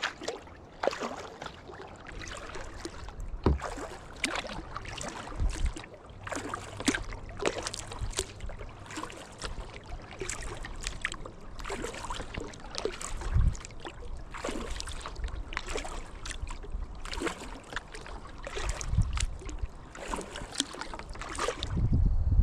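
Kayak paddling: water splashing and dripping off the paddle blades in many small irregular splashes, with a few low thumps.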